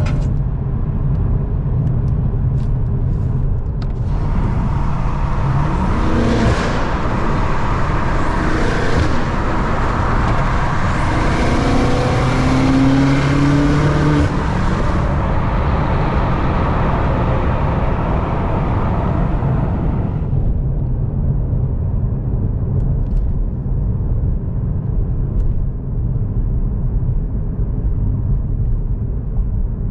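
BMW M8 Competition's twin-turbo V8 through an Akrapovic exhaust while driving: a steady low drone, with a long pull from about four to twenty seconds in where the engine note climbs and the rushing noise swells, before it settles back to a low cruise.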